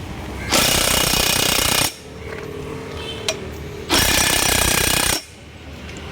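Pneumatic impact wrench run in two bursts of about a second and a half each, tightening bolts on a truck differential's crown and pinion assembly.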